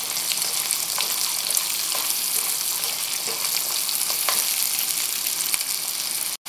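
Sliced carrots and onions sizzling and crackling in hot oil in a wok while being stirred with a wooden spatula. The sound cuts off abruptly just before the end.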